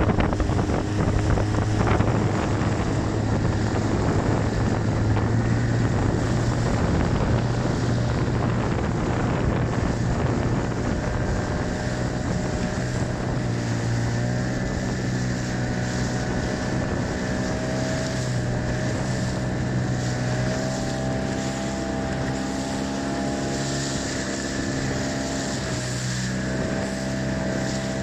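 Yamaha 9.9 hp outboard motor, still at its stock 9.9 hp (not derestricted), running steadily under way, pushing an inflatable boat through waves. Wind noise on the microphone and water noise are mixed in, heaviest in the first several seconds.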